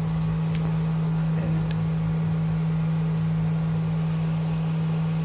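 A steady low hum over a faint hiss, with a few faint clicks.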